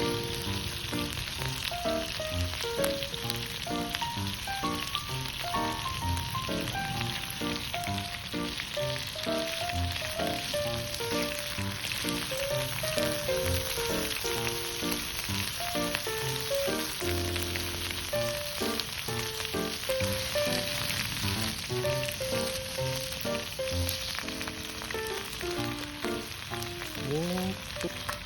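Food frying in a pan, a steady sizzle, under background music with a simple stepping melody and bass notes.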